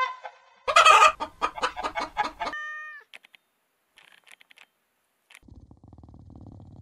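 Hens clucking: a short pitched call, then about a second in a rapid run of loud clucks that ends in a brief drawn-out note. After that only faint clicks and a low hum remain.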